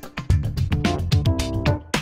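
Upbeat background music with guitar, bass and a steady drum beat.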